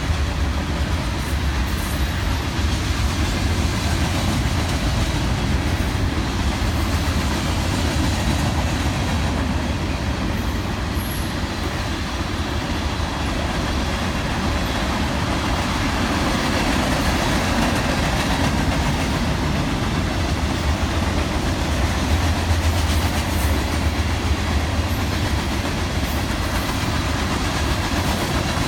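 A train rolling past, its cars making a steady rumble on the rails.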